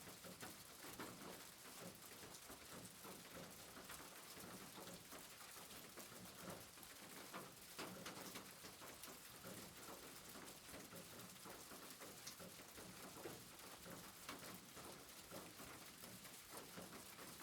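Faint, steady rain patter: an even hiss of many small drips.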